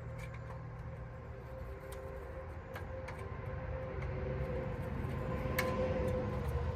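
Small metal fasteners being handled and looked over, giving a few light scattered clicks over a steady low hum with a faint steady tone.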